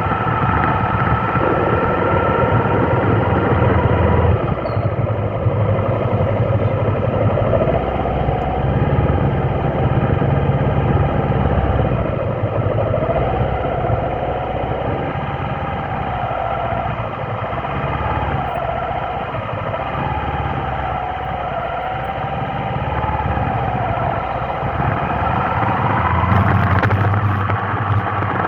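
A motor vehicle's engine running steadily at low revs, its pitch drifting slowly up and down.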